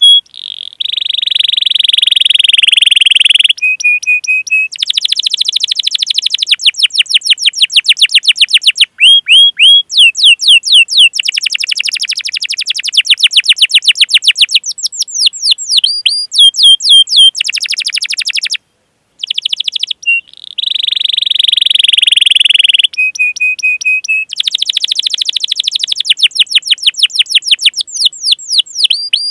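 Domestic canary singing a long, loud song: held buzzy notes, fast rolling trills and strings of "cuit cuit" chirps. There is a brief silent break about two-thirds of the way through, then a similar run of phrases starts again.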